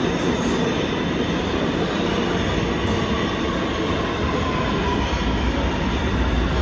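Kawasaki R211A subway train moving through the station, a steady rumble of steel wheels on rail with a faint high tone that slides slightly down partway through. The low rumble grows louder near the end.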